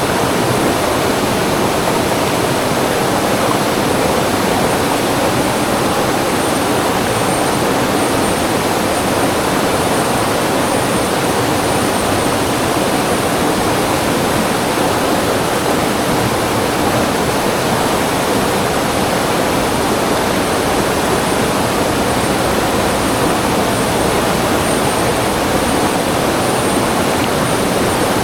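River water rushing steadily over rocks and small cascades.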